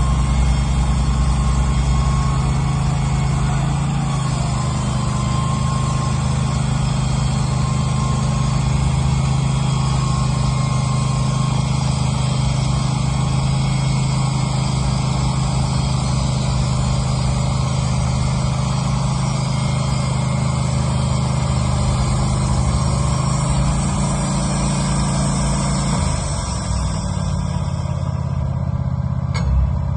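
Wood-Mizer LT15 band sawmill running steadily while its band blade cuts through a pine beam, an engine drone under a constant high hiss. About 26 seconds in, the engine note drops in pitch, and near the end the hiss of the cut fades.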